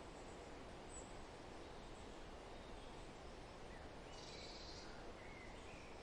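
Steady, faint wind rustling through forest leaves, with a few scattered bird chirps and a brief burst of higher chirping about four seconds in.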